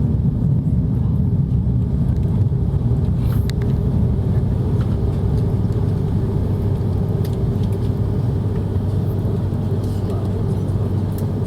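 Steady, loud rumble of an Airbus A330-300 jet with its Rolls-Royce Trent 700 engines running, with a constant low hum and a few faint ticks.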